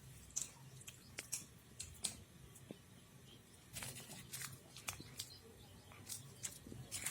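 Cats chewing a fish head: irregular sharp crunches and clicks of teeth on bone.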